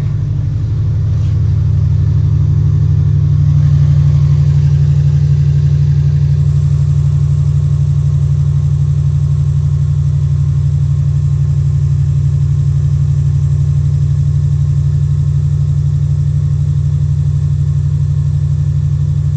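2000 Subaru Impreza Outback Sport's flat-four engine and exhaust running steadily, a little louder about four seconds in. The exhaust leak has been sealed with muffler cement, and no ticking is heard.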